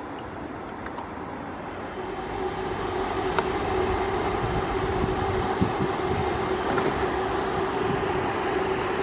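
A train running past, growing louder from about two seconds in, with a steady mid-pitched tone over the rumble and a single sharp click a little after three seconds.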